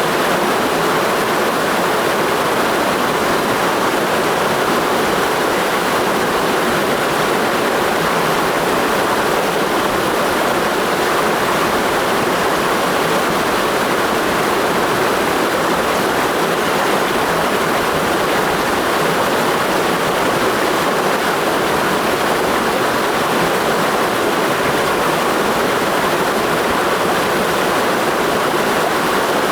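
Mountain stream rushing over rocks: a steady, even roar of water that does not change.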